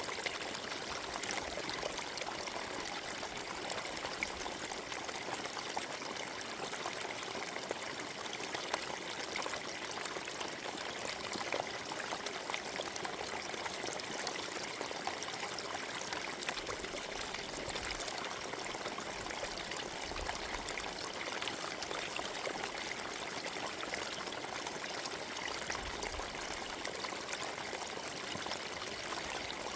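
Forest stream flowing over stones, a steady babble and trickle of water without a break.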